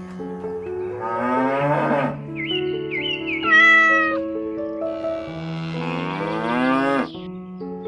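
Background music of steady held notes with animal calls over it: short rising cries around the middle and a long rising glide near the end.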